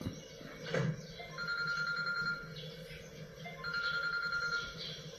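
Telephone ringing twice: an electronic warbling ring about a second long, a pause of about a second, then a second ring.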